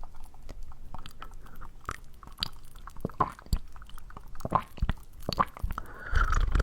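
Dry plant material crackling and crunching as it is rubbed and poked against an ASMR microphone: irregular sharp crisp clicks, with a denser crunchy burst near the end.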